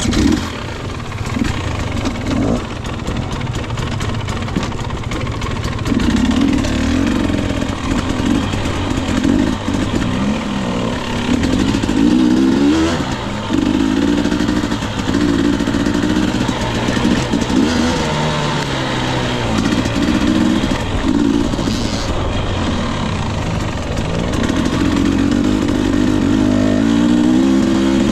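Husqvarna TE 250i two-stroke single-cylinder dirt bike engine being ridden, its pitch rising and falling again and again with the throttle. It gets louder about six seconds in.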